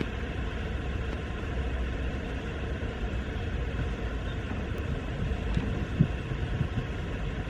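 Steady low outdoor rumble with a light hiss, and one soft knock about six seconds in.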